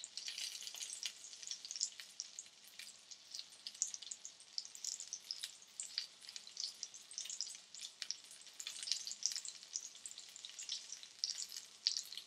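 Mince cutlets shallow-frying in hot oil in a pan: a steady sizzle dotted with many small, sharp crackles and pops at an uneven rate.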